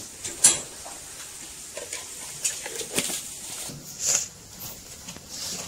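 Chopped vegetables sizzling in a steel bowl over a wood fire, with a few sharp clicks and scrapes, the loudest a single click about half a second in.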